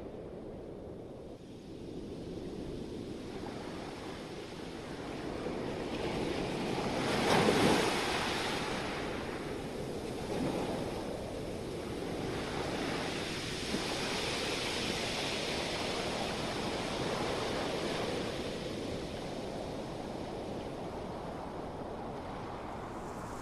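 Rushing noise that swells and ebbs in slow surges, loudest about seven or eight seconds in, like surf or passing traffic heard as a wash of sound.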